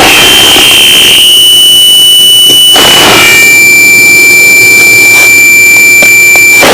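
Harsh noise electronics: a loud, shrill, steady tone over a haze of noise, which drops to a slightly lower, piercing tone about three seconds in and holds there.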